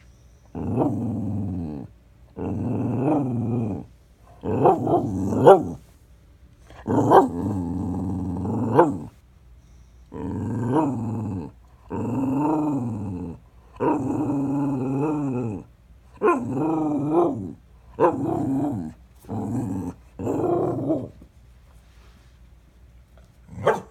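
A dog vocalizing as it begs for food: about a dozen drawn-out calls, each a second or two long and bending up and down in pitch, with short pauses between them.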